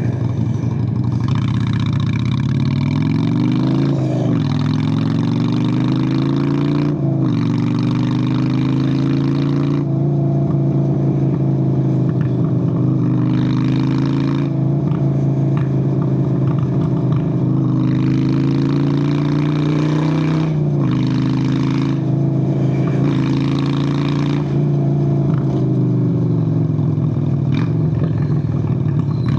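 Honda Steed VLX 600 V-twin motorcycle engine under way. It accelerates with two gear changes in the first seven seconds, where the pitch climbs, drops and climbs again, then cruises fairly steadily and eases off near the end, with a rushing noise coming and going over it.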